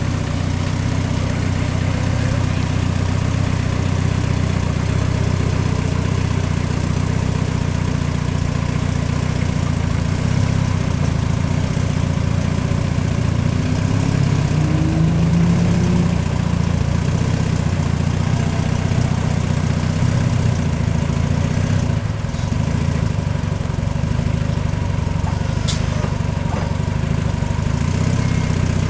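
Truck engine idling steadily, with a brief rise in pitch about halfway through and a single sharp click near the end.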